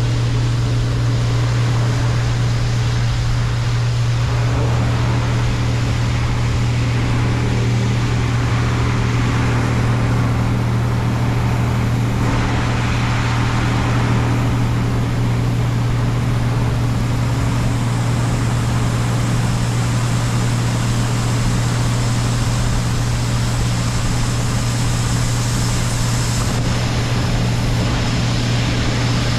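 Heavy diesel engine of harvest machinery running steadily at constant speed: a continuous low drone under a steady rushing noise.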